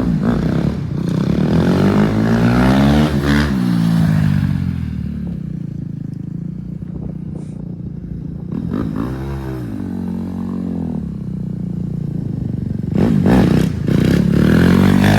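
Dirt bike engine running and being revved: the pitch climbs about two seconds in, blips briefly near the middle, and climbs again near the end.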